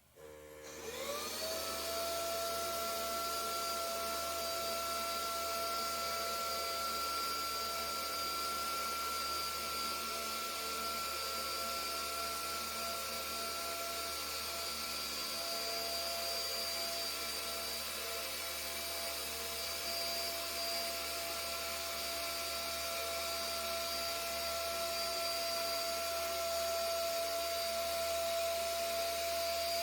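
SMDEE D2 futon vacuum cleaner switched on: its motor spins up with a rising whine over about a second, then runs steadily with a constant high-pitched whine over the airflow noise.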